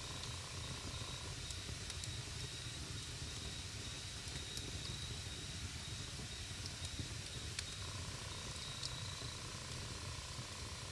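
Wood campfire burning with a steady low rushing sound and occasional sharp crackling pops, along with a faint thin high whistle.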